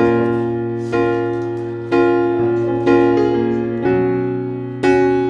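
Keyboard music, piano-like: a chord struck about once a second, each ringing and fading before the next.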